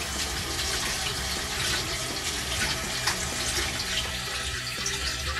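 Kitchen tap running, with water splashing over raw meat as it is rinsed.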